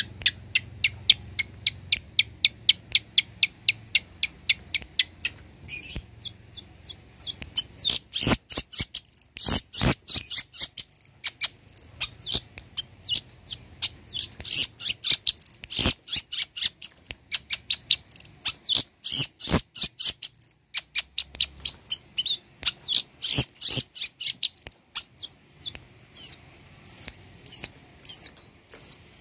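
Long-tailed shrike (cendet) in full song: rapid runs of short, sharp, high notes, several a second, in ever-changing phrases, with a brief pause about two-thirds of the way through.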